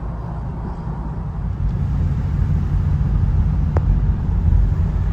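Road and engine noise inside a moving car's cabin, a steady low rumble that grows louder about two seconds in.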